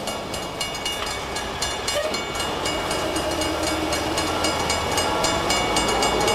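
A rail vehicle rolling on track: regular clicking at about four or five a second over a steady low hum, with a tone that slowly rises in pitch through the second half.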